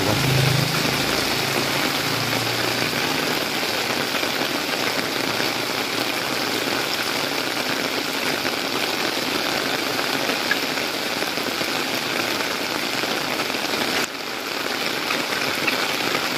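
Heavy rain pouring onto a flooded street, a steady hiss of water splashing on the road and surfaces. A low hum sounds in the first couple of seconds, and the rain dips briefly about 14 seconds in.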